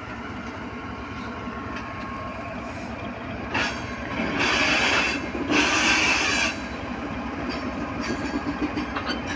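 Freight train running through a station, its wagons making a steady rolling rumble. About four seconds in come two loud, high-pitched bursts, each lasting about a second.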